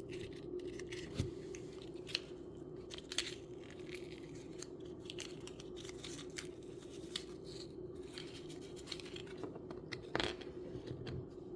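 Small plastic miniature-kit parts being handled and fitted by hand: scattered light clicks, taps and rustles, a few sharper ones, over a steady low hum.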